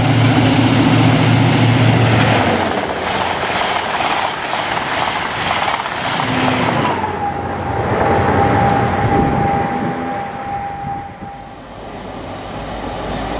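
A High Speed Train running through at speed: the diesel engine of its class 43 power car passes first with a low hum, then the Mark 3 coaches go by with a rush of wheel-on-rail noise and rapid clatter over rail joints. About halfway through, a high whine dips slightly in pitch and holds for several seconds before the sound fades.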